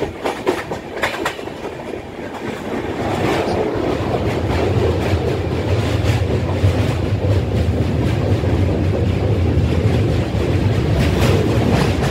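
Express passenger train's wheels clicking over rail joints, then about three seconds in the run grows louder into a steady deep rumble as the train crosses a long river bridge.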